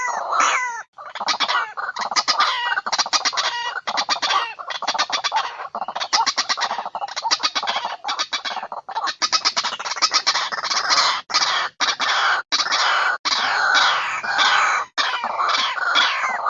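White-breasted waterhen calls played as a lure: rapid runs of short repeated notes, about eight a second, with falling notes at the start and again near the end.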